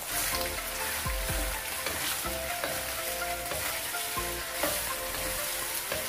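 Raw chicken wings sizzling in hot olive oil in a nonstick wok, stirred with a wooden spoon, with a few light knocks and scrapes of the spoon against the pan.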